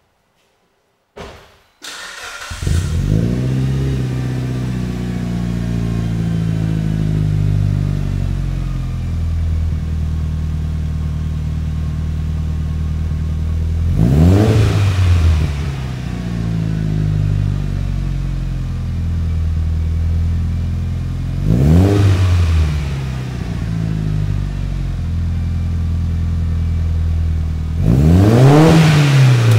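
Turbocharged 4G63 inline-four of a Mitsubishi Lancer Evolution IX breathing through a First Racing F1 turbo exhaust. It cranks and starts about two seconds in, then idles as its speed settles down. It is revved three times, about seven seconds apart, with the last rev held longest near the end.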